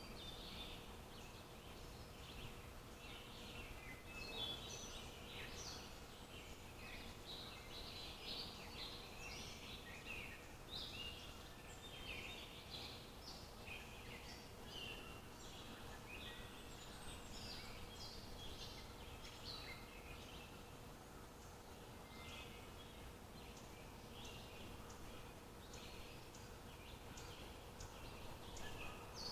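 Several small birds chirping and trilling in quick overlapping calls, over a steady low outdoor hiss.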